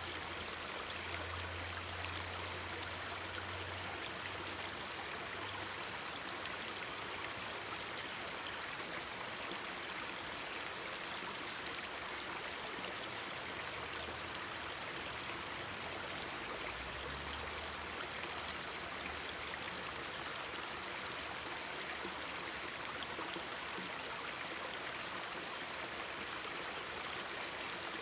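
Mountain stream babbling steadily, an even rushing of water.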